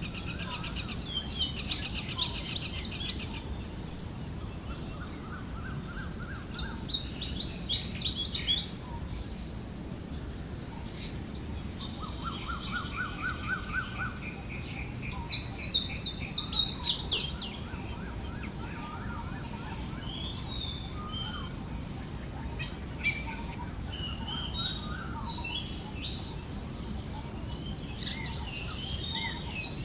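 A chorus of forest songbirds chirping and calling, including several fast, evenly repeated trills. Underneath runs a steady high-pitched drone and a low breeze-like rush.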